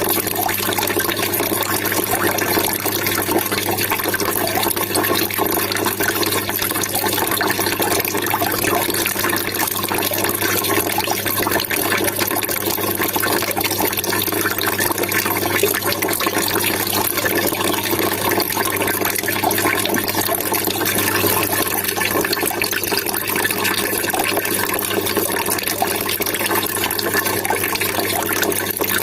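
Water trickling and splashing steadily, an even, unchanging rush with no breaks.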